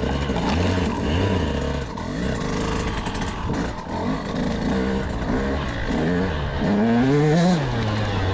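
KTM 200SX single-cylinder two-stroke motocross engine being ridden, the throttle opened and closed again and again so the pitch climbs and falls several times. It makes its longest, loudest climb near the end before dropping back.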